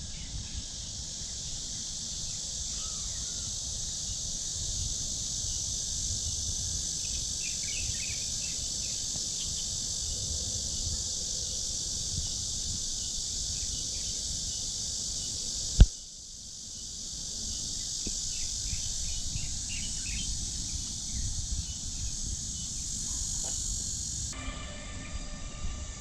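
Insects droning steadily in summer woodland, with scattered bird chirps and calls over them. About two-thirds of the way through there is a single sharp click and the sound briefly dips. Near the end the insect drone cuts off and a different steady sound with humming tones comes in.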